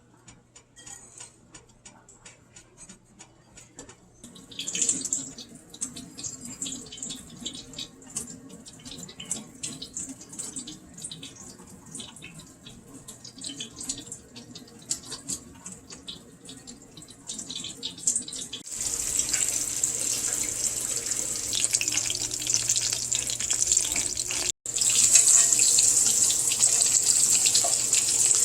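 Breaded chicken frying in hot oil: scattered crackles and sizzle at first, then, after a cut about two-thirds of the way in, a louder, dense, steady sizzle.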